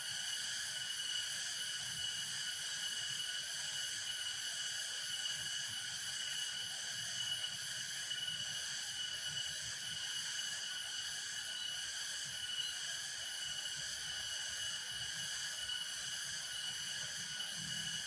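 Steady chorus of insects trilling in a continuous high-pitched drone that pulses rapidly and never breaks.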